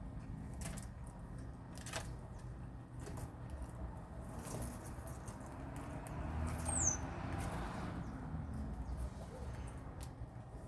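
Small birds moving about, with scattered light taps and rustles, and one short high chirp falling in pitch about seven seconds in.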